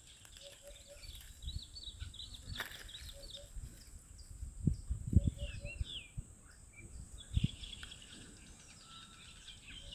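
Garden birds chirping and calling, with short high chirps throughout and a quick three-note call repeating lower down. A few dull low thumps stand out about five seconds in and again at seven.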